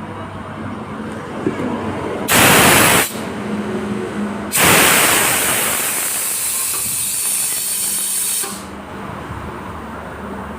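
Compressed air hissing out in two blasts: a short one under a second long, then a longer one of about four seconds that eases slightly before cutting off.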